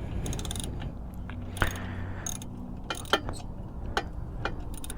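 Ratchet wrench clicking in short runs, with scattered sharp metal clicks, as bolts on a motorcycle exhaust are worked loose.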